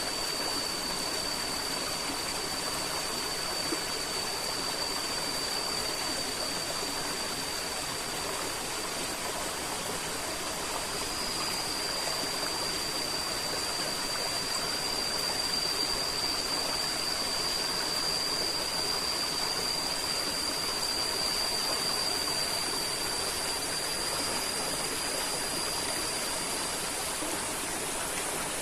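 River water flowing steadily in an even rush. A constant thin, high tone sits over it and stops near the end.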